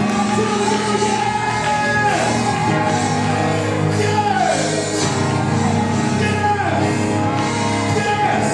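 Live praise band and singers performing a gospel worship song, the voices holding long notes that slide downward every couple of seconds over the full band.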